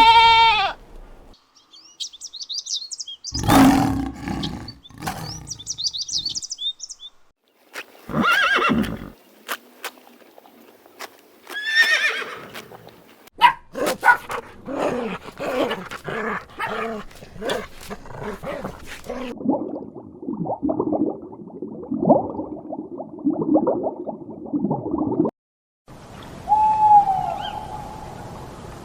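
A run of different animal calls cut one after another: high chirping calls, then harsh calls, a stretch of low repeated grunts, and two short hoots near the end.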